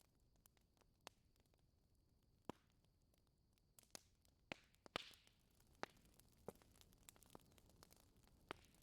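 Faint crackling of a wood fire in a fireplace: sparse sharp pops and snaps at irregular intervals, the loudest about five seconds in, followed by a brief hiss.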